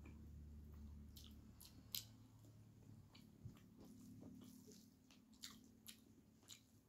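Faint eating sounds of rice and chicken eaten by hand: soft chewing with scattered wet mouth clicks and smacks, the sharpest about two seconds in.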